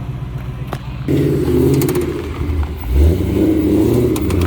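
A car engine running with a low, steady rumble that gets louder about a second in and again around three seconds in. A few sharp clicks come near the end.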